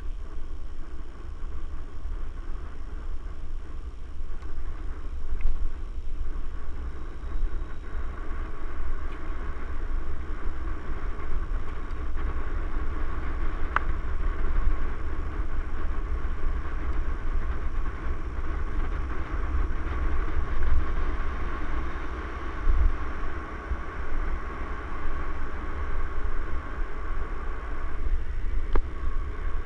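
Mountain bike rolling along a trail: a steady rolling hiss from the tyres and drivetrain with low wind rumble on the microphone, and a couple of sharp clicks.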